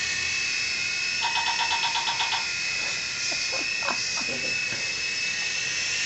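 Small electric motors of a toy remote-control helicopter whining steadily at a high pitch. About a second in, a rapid run of short electronic beeps lasts about a second, and a few faint clicks follow.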